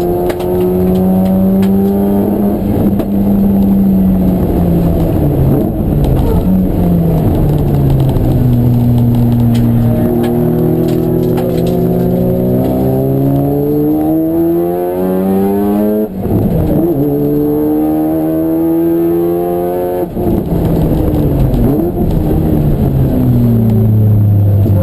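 Race car engine running hard under load, its note falling as it slows, then climbing steadily for several seconds. The note breaks briefly about 16 and 20 seconds in, as on gear changes, then falls away again near the end.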